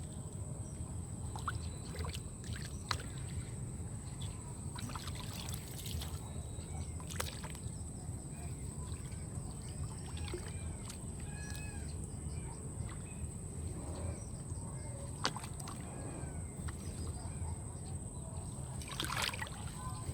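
Water sloshing and trickling, with scattered short knocks, over a steady low rumble.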